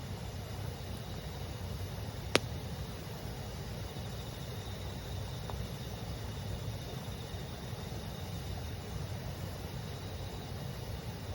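Campfire firewood giving one sharp, loud pop about two seconds in and a faint crack a few seconds later, over the steady murmur of a stream and a continuous high chirring of insects.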